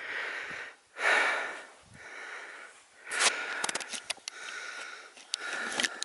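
A person breathing hard, three slow breaths about a second apart, followed by a run of small clicks and scuffs.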